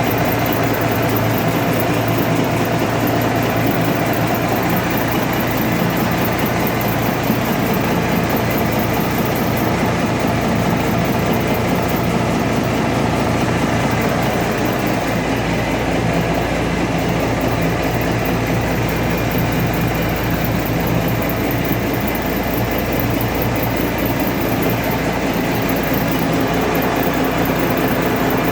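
Cummins NTA855-C280 inline-six turbocharged diesel running steadily at an even speed, being run in after an overhaul.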